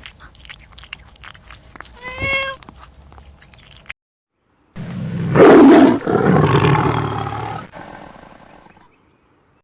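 A short pitched animal call with some clicks, then after a brief gap a big cat roaring loudly for about four seconds, fading away near the end.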